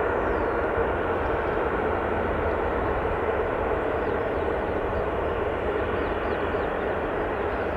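Jet airliner engine noise, a steady rushing roar that slowly eases in level.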